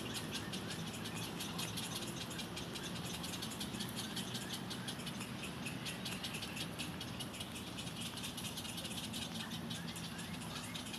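Outdoor park ambience: birds chirping over a rapid, continuous high chirring, with a steady low hum beneath.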